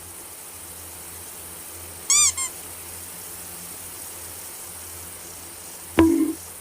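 Domestic cat giving a short, high mew that rises and falls, with a brief second note right after, about two seconds in. A sharp knock sounds near the end.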